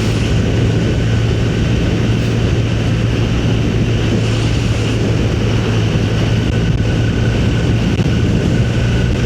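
Motorcycle riding at a steady cruising speed: an even engine drone under a constant rush of wind and road noise.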